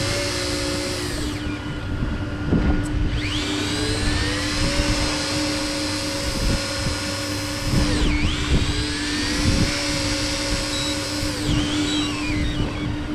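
Electric fishing reel motor whining as it winds in line: it spins up in pitch, runs steadily, then drops and stops, three times over, with a steady low hum underneath.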